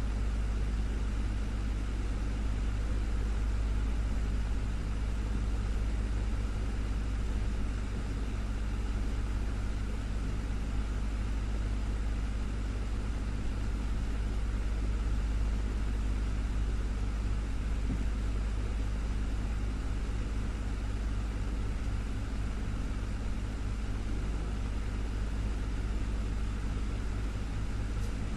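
Desktop fan running steadily: a constant low hum under an even rush of air, with no change throughout.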